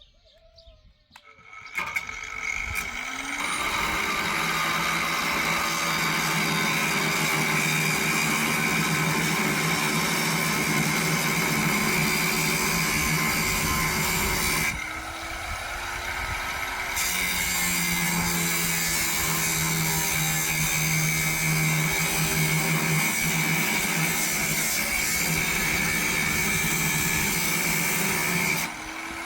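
A power tool's motor spins up with a rising whine about two seconds in and runs steadily under load, easing off briefly about halfway through before spinning up and running again.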